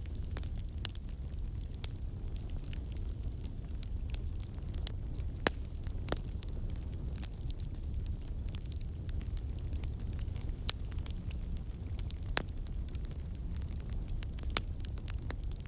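Wood fire burning in a fireplace: a steady low rumble with scattered crackles and sharp pops.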